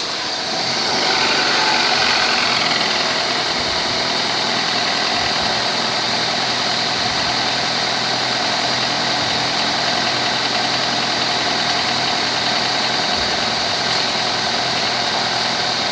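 2000 Honda Accord engine idling steadily, a little louder over the first couple of seconds and then even.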